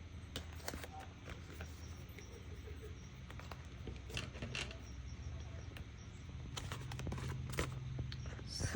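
Faint scattered ticks and rustles of paper being handled at a craft table, over a steady low hum.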